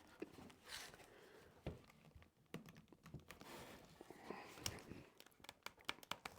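Near silence with faint, scattered light clicks and taps.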